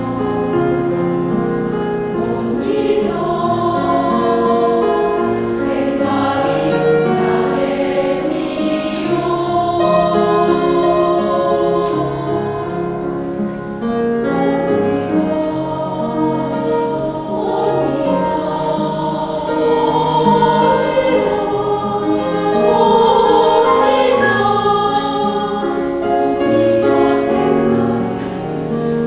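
Buddhist temple choir singing a hymn, many voices together, with held notes that change pitch throughout.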